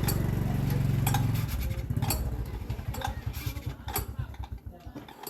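A walking tractor's engine running, then slowing after about a second and a half, its separate firing strokes spacing out until it stops about five seconds in.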